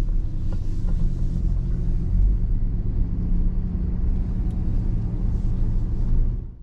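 Truck engine running with a low, steady road rumble as it drives off, fading out at the very end.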